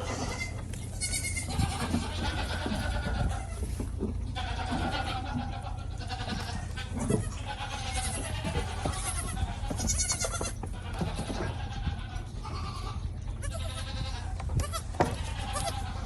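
Several goat kids bleating repeatedly, their calls overlapping, over a steady low hum.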